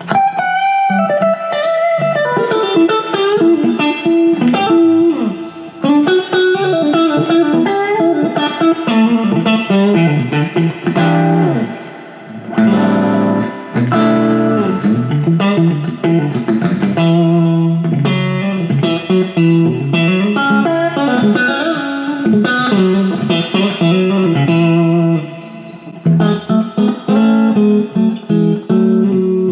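PRS SE Silver Sky electric guitar with single-coil pickups played straight into a Fender Deluxe tube amp: a run of single-note lines and chords with bends and slides, with a brief drop in level about 25 seconds in.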